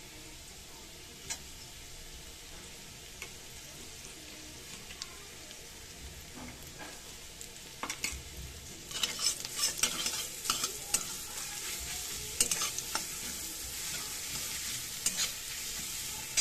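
Onions frying in mustard oil in a metal wok, a low steady sizzle with an occasional tap of a metal spatula. About eight seconds in, wet almond paste goes into the hot oil and the sizzle turns much louder and crackling, while the flat metal spatula scrapes and stirs in the pan.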